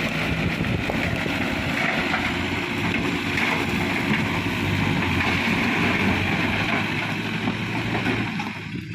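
Mitsubishi Fuso Canter dump truck's diesel engine running steadily under a broad rushing noise, dropping away near the end.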